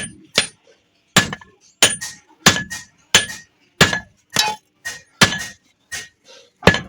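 Hammer blows on iron in a steady run, about one every two-thirds of a second, each strike giving a short metallic ring.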